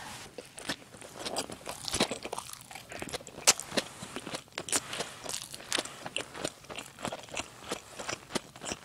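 A person chewing a mouthful of smoked salmon over rice with radish sprouts, recorded close up: an irregular run of sharp crunches and wet mouth clicks, several a second.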